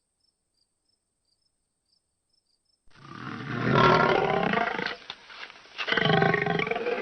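Lion roaring twice, the first roar starting about three seconds in after silence, the second near the end.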